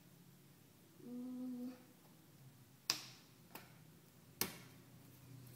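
Cardboard jigsaw puzzle pieces clicking sharply against each other and the board, three times in the second half. A short steady hum from a person comes about a second in.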